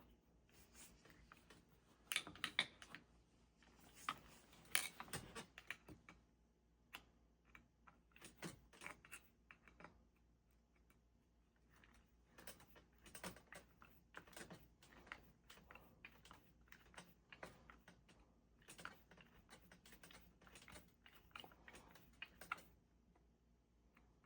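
Faint, irregular small clicks and taps of a screwdriver driving machine screws into a Delco starter's housing, metal tool on steel screw heads.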